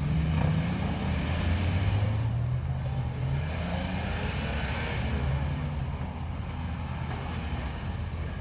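Nissan Patrol Y61 engine running as the 4x4 is driven off-road, its pitch climbing for a couple of seconds about a second in, then holding steady.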